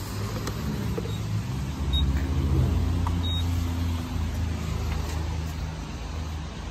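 Low hum of a vehicle engine running, growing louder a couple of seconds in and then easing off, with a few faint short high beeps and clicks from handling the fuel pump.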